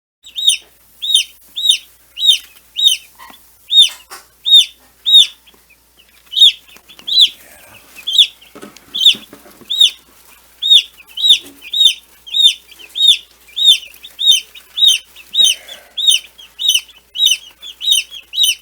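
Meat-bird (broiler) chicks peeping: a steady run of short, loud, high-pitched peeps, one about every half second to second.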